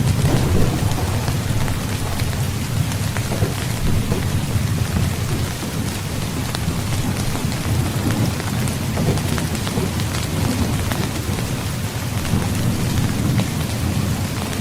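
Heavy rain falling steadily, with low thunder rumbling underneath that swells and eases several times.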